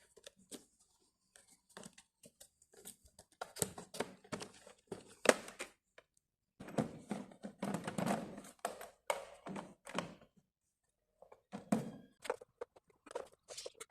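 Irregular plastic clicks, knocks and rustling as the car's cabin dust filter is handled and fitted back into its plastic cover, with a short pause near the middle and another about three quarters of the way through.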